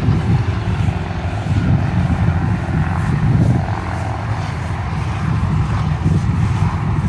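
Steady low rumble of a vehicle driving, its engine and road noise.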